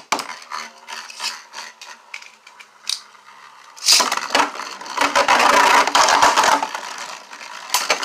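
Plastic Beyblade spinning tops, 3D-printed, clicking and rattling as they are readied. About four seconds in comes a sharp hit as they are launched into a plastic stadium, then a loud grinding, rattling scrape of the tops spinning and clashing for a few seconds.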